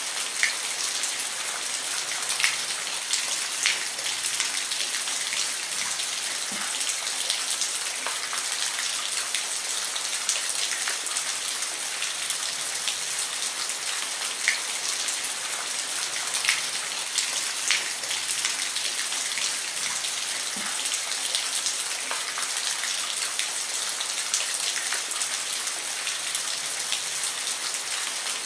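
Steady rain falling on a roof: an even hiss with scattered sharper drop hits standing out every second or two.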